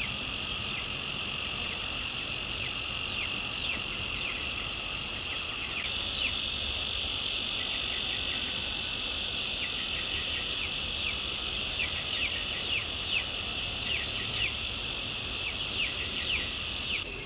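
Steady, high-pitched chorus of insects, with many short falling chirps over it that grow thicker and louder about midway.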